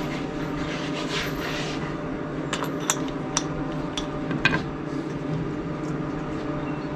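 A machine running with a steady, even hum, with several sharp clicks in the middle.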